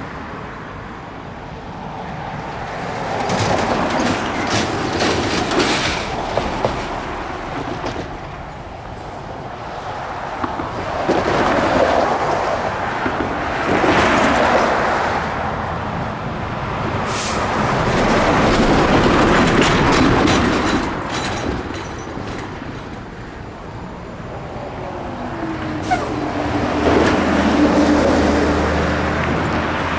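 Union Pacific manifest freight train rolling past, its wheels clicking over the rails, the noise swelling and fading in waves every few seconds as cars go by. Near the end a steady low hum joins in.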